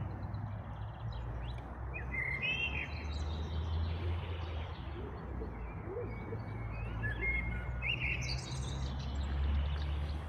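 Songbirds singing short chirping phrases, one burst about two to three seconds in and another around seven to eight seconds, over a steady low rumble.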